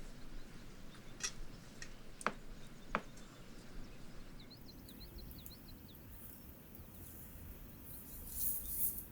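Quiet outdoor background with three sharp clicks in the first three seconds, then a quick run of small bird chirps, and a short hiss near the end.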